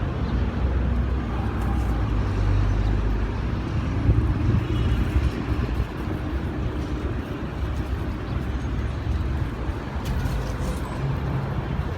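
Strong sandstorm wind blowing hard across the microphone: a steady, rough rumbling rush with a low hum beneath it.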